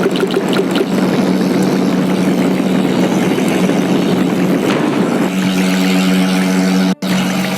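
A large engine running steadily with a constant hum, dropping out for an instant about seven seconds in.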